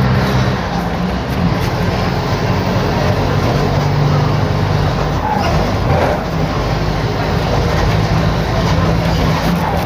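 Mercedes-Benz OF-1721 BlueTec 5 bus diesel engine running steadily while the bus is under way, heard through a holed exhaust. The engine note shifts slightly in pitch.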